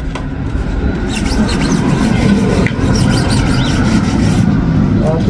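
A car's body being scrubbed with a brush by hand: a steady, loud, rough rubbing noise.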